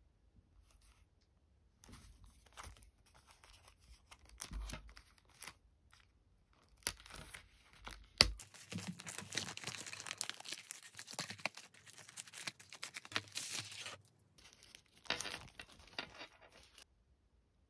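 Packaging being torn open and crinkled by hand, in short bursts at first, then a sharp snap about eight seconds in followed by several seconds of continuous tearing and rustling.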